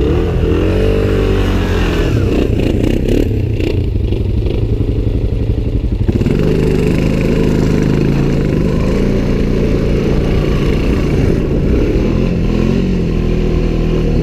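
ATV engine running while riding through snow, revving up and down in the first couple of seconds. A few knocks and rattles from the machine come around three to four seconds in, then the engine settles into a steadier run.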